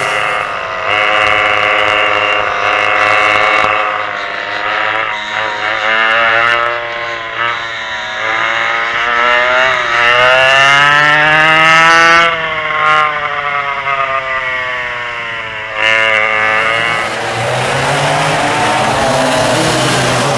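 Vintage dual-engine racing kart's two-stroke engines running hard and continuously, the pitch rising and falling as the kart accelerates and slows. There is a long climb in pitch, then a fall, and a sudden drop about three-quarters of the way through.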